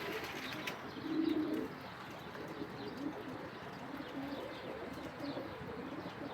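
Domestic pigeons cooing: a run of low, overlapping coos, the loudest about a second in, with faint chirps from other birds.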